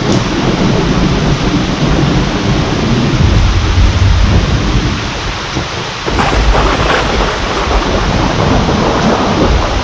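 Steady rain with rolling thunder rumbling through it; a sharp thunderclap cracks about six seconds in and rumbles on.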